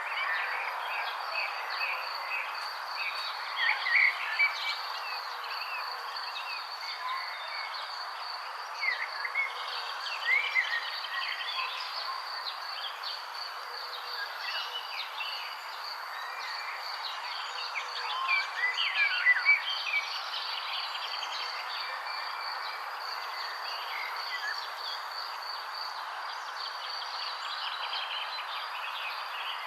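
Songbirds chirping in scattered short bursts over a steady, high-pitched insect trill and a constant background hiss.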